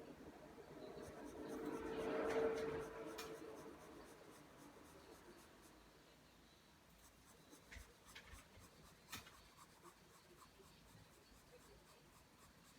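Pencil drawing lines on paper: a scratchy stroke that swells and fades over the first few seconds, then a few light ticks of the pencil about eight to nine seconds in.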